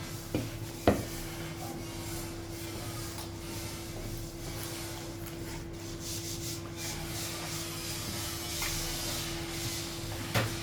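Mealtime eating noises: faint rubbing and handling at a plate, with sharp clicks about a second in and again near the end, over a steady low hum.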